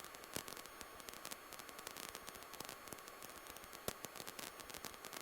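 Faint hiss and static on a light aircraft's headset audio feed between radio calls, scattered with small crackles and a faint steady tone.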